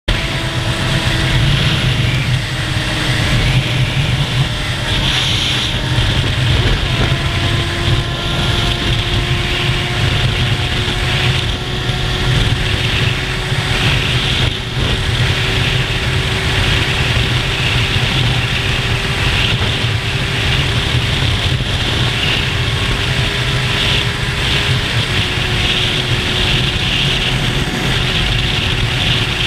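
Motorcycle engine running steadily under way, its pitch climbing slowly with a small dip about two-thirds through, over wind rushing on the microphone.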